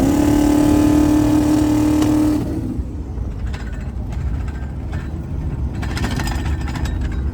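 Twin-turbo LS V8 engine pulling under acceleration, its note held high for about two and a half seconds before easing off, leaving a low running rumble.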